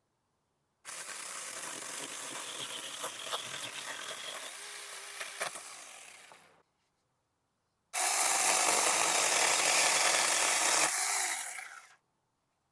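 Saker mini battery-powered electric chainsaw running and cutting through a branch in two runs. The first lasts about six seconds and fades out near its end. After a short pause, a louder cut of about four seconds follows.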